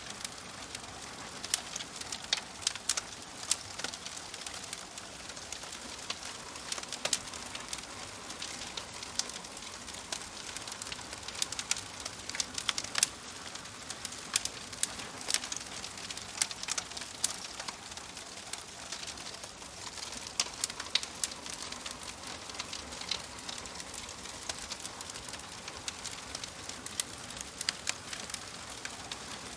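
Wood fire crackling: a steady soft hiss with frequent sharp, irregular pops and snaps.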